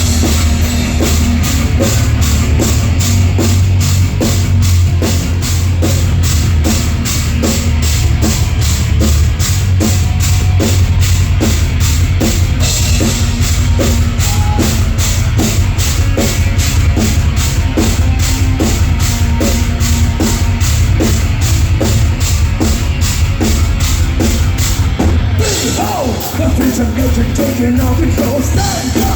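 Heavy metal band playing live: an instrumental passage driven by a fast, steady drum beat, with no singing. About 25 seconds in there is a short break before the band comes back in.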